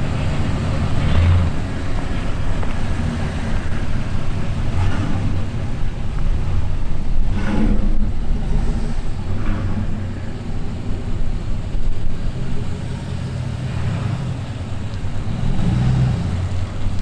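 A vehicle engine running, rising and falling in revs now and then.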